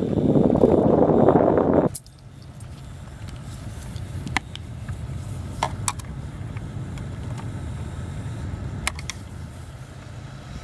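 Rush of air in a car for about two seconds, cut off abruptly, then the engine idling low with a few sharp clicks scattered through.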